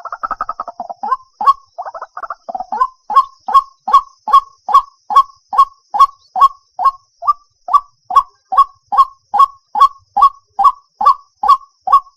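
White-breasted waterhen calling: a rapid jumbled chatter in about the first second, again briefly near two seconds, then a steady run of harsh, honking 'kwak' notes, about three a second.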